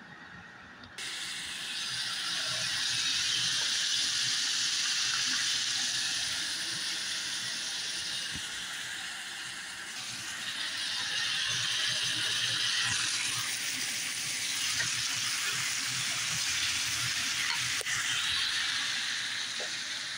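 Sliced onion, tomato and garlic sizzling in a frying pan with a steady hiss that starts suddenly about a second in, with a few light knocks.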